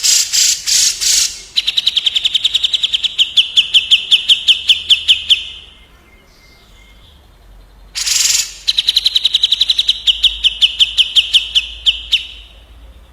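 Caged songbirds from a cucak jenggot (grey-cheeked bulbul) versus kapas tembak song track. The pattern comes twice: a short harsh rasping call, then a fast rolling run of sharp high notes lasting several seconds. The two runs are separated by a brief pause.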